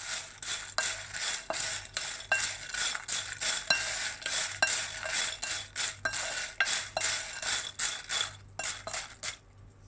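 A spoon repeatedly clinking and scraping against a metal pan while fried potato cubes are tossed with salt and chilli powder, about one or two knocks a second, stopping shortly before the end.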